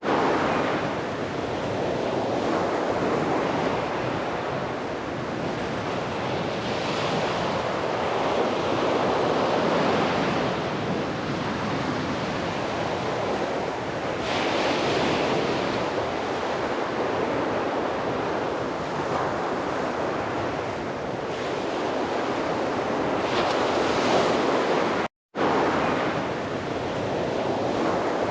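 Sea surf on a beach: a continuous rushing wash of waves that swells into a brighter break every several seconds. The sound drops out for a split second near the end.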